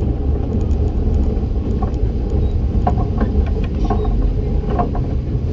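Kurobe Gorge Railway narrow-gauge train running along the track: a steady low rumble of wheels on rails, with a few short squeaks and clicks about halfway through.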